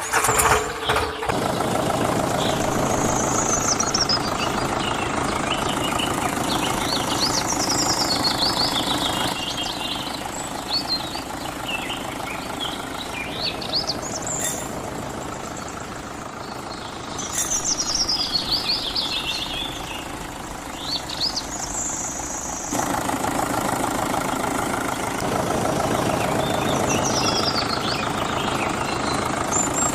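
A small engine or motor running steadily, with high chirping squeals falling in pitch every few seconds. The level shifts a couple of times.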